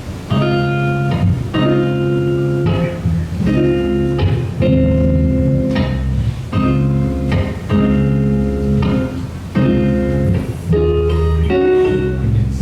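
A guitar strumming chords in a steady rhythm, with a new chord roughly every second, starting about a third of a second in.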